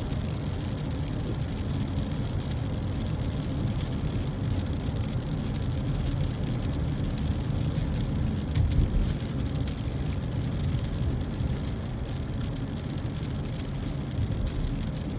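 Steady road and engine rumble of a car heard from inside while driving, with scattered faint ticks in the second half.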